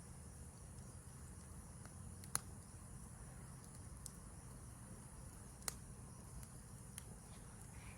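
Campfire crackling, with four sharp pops spread through, over a steady high-pitched chorus of crickets and a low rumble.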